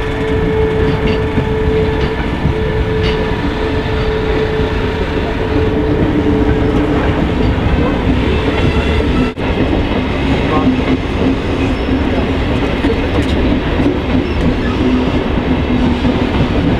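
An SBB electric passenger train running through a station: wheels rumbling and clattering over the rails, with a steady electric hum from the locomotive.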